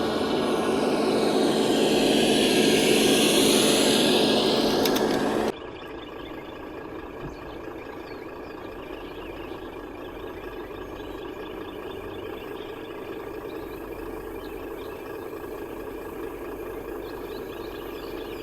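A radio-controlled construction vehicle running, its motor and gears whining, with the pitch sweeping up and down as the speed changes. About five and a half seconds in the sound drops suddenly to a quieter, steady hum.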